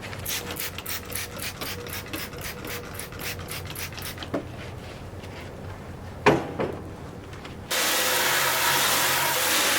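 Brush scrubbing the tractor in quick strokes, about five a second, for the first four seconds, then a single knock. About eight seconds in, a loud steady hiss starts and keeps going.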